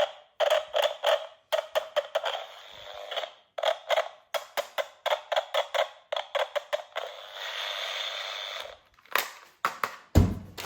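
Toy gun's electronic firing sound effect from its small built-in speaker: a fast, uneven run of sharp, tinny shots with no bass, with a short stretch of steady hiss after the middle.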